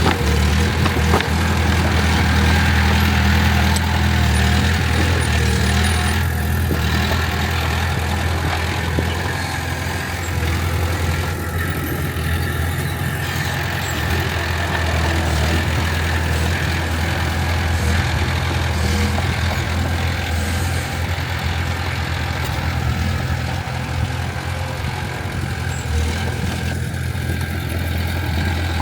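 Diesel engine of heavy earthmoving machinery running steadily with a low, even hum, easing slightly in loudness partway through.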